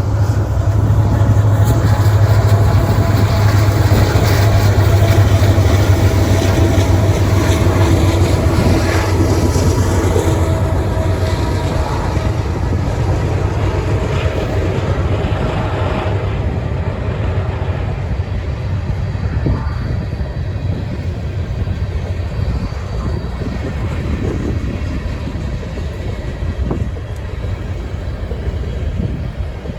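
Freight train passing: diesel locomotives with a strong low engine drone for the first ten seconds or so, which then fades, leaving the steady rumble of empty coal hopper cars rolling over the rails.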